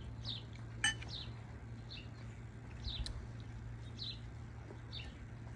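Small bird chirping: short, high notes that slide downward, repeating every half second to a second. A spoon clinks once against a dish about a second in.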